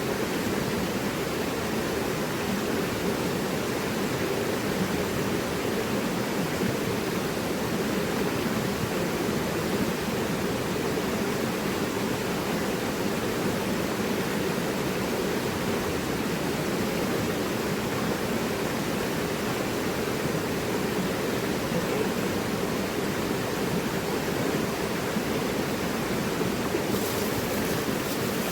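Mountain river rushing steadily, an even, unbroken wash of flowing water.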